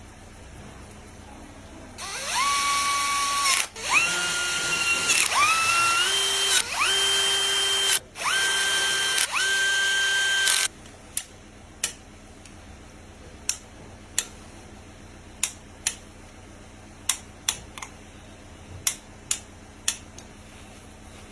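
Power drill running in about six short bursts, each spinning up to a steady whine and then stopping. These are followed by a dozen or so sharp, irregularly spaced clicks.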